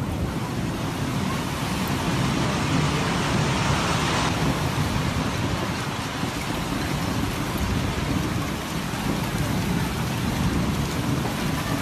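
Heavy rain from a sudden summer cloudburst pouring steadily, with a continuous low rumble underneath. A louder hiss swells about two seconds in and cuts off sharply around four seconds.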